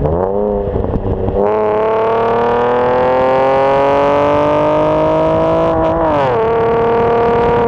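Exhaust of a V6 Camaro fitted with Dynomax Race Bullet mufflers under hard acceleration: the engine note climbs steadily for about four seconds, then drops about six seconds in and holds steady.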